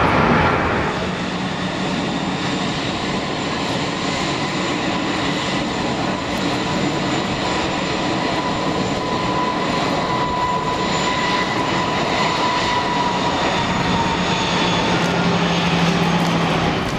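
Jet engines of a large cargo airliner, a steady rush of noise with a faint steady whine over it.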